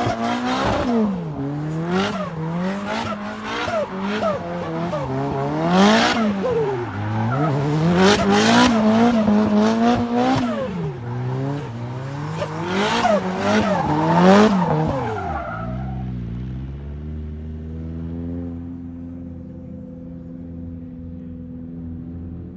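Car engine revved up and down again and again, with short sneeze-like bursts of noise near the tops of the revs. About 16 seconds in it drops back to a steady, quieter idle.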